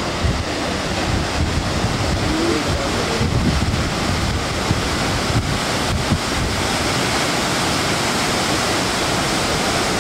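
Wind buffeting the microphone over a steady rush of water, with gusty low rumbles throughout.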